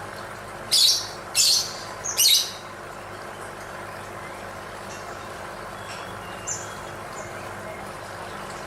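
Lovebird giving three loud, shrill calls in quick succession in the first couple of seconds, then only a few faint short chirps over a steady background hiss.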